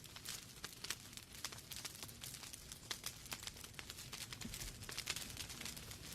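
Wood fire burning in a fireplace: logs crackling with irregular sharp pops several times a second over a steady soft hiss.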